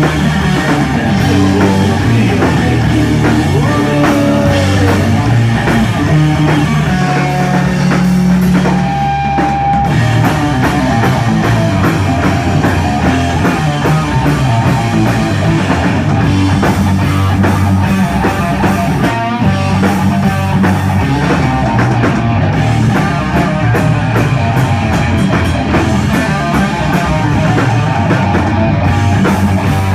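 Live stoner rock band playing loudly: distorted electric guitar riffs over bass and a drum kit, without pause.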